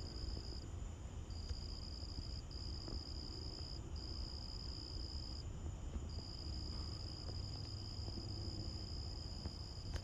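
A cricket trilling: one steady high-pitched trill held for one to four seconds at a time, broken by short pauses, over a low steady rumble.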